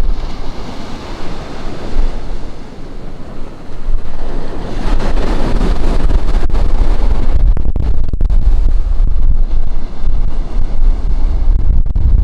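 Ocean surf breaking and washing up a beach, with a louder surge about five seconds in. Wind buffets the microphone throughout as a heavy low rumble.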